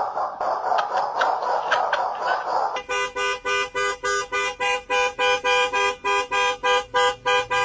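A car horn sounding in rapid short toots, about three or four a second, starting about three seconds in. Before that there is a dense, noisy stretch.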